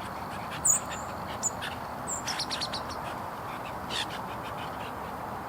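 Small songbirds giving short, high chirps: one loud chirp, then scattered calls, a quick run of chirps, and another call later on. A steady hiss runs underneath.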